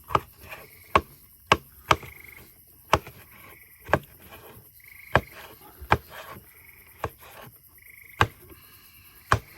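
Knife chopping through a roasted red bell pepper onto a cutting board: single sharp knocks about once a second, with an uneven rhythm.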